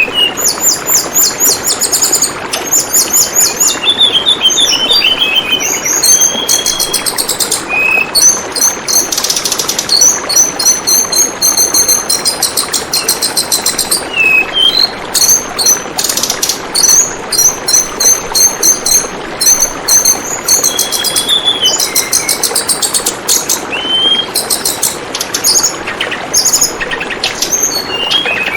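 Tledekan bambu birds singing rapid, high trills and short chirps, one phrase after another, over the steady babble of flowing water.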